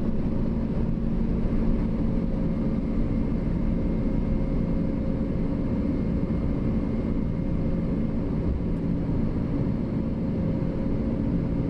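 Steady roar of airflow and engines inside the cockpit of a McDonnell Douglas MD-11 freighter climbing out just after takeoff, with a faint steady hum underneath.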